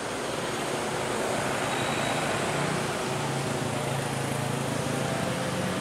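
Roadside traffic noise with a vehicle engine running; a low steady engine hum becomes clearer about three seconds in.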